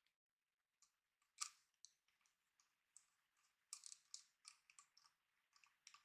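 Faint, irregular clicks and ticks of small plastic and metal parts being handled as a mounting bracket is fitted onto the pump of a liquid CPU cooler. There is a sharper click about a second and a half in and a cluster of them around four seconds in.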